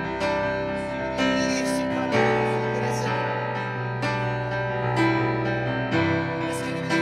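Slow instrumental music on a keyboard: sustained chords, with a new chord or note struck about once a second.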